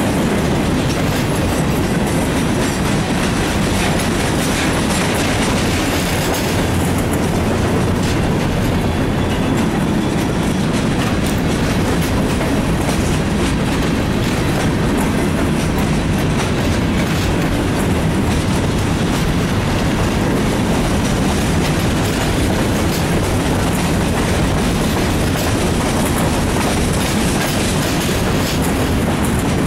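Freight cars of a mixed freight train rolling past at close range: a steady, loud rumble of steel wheels on the rails with a continuous clickety-clack.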